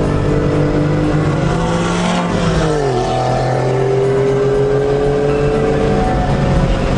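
Car engine heard from inside the cabin while lapping a race track: its pitch holds steady, falls sharply about two to three seconds in, then climbs slowly as the car accelerates again.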